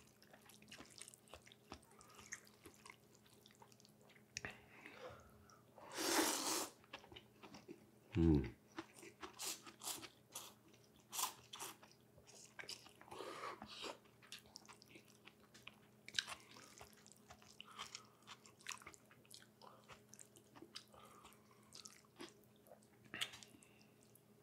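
Close-miked sounds of a person eating a rice-paper spring roll: chewing and biting with many small wet clicks. A brief loud rush of noise comes about six seconds in, and a short low thud follows about two seconds later.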